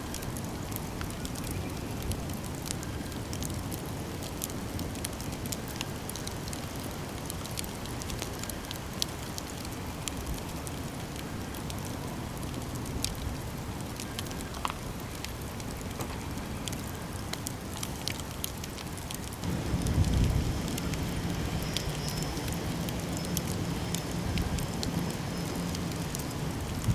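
Campfire crackling and popping steadily, with many small sharp snaps over a hiss of burning. About twenty seconds in, a low rumble comes in and stays.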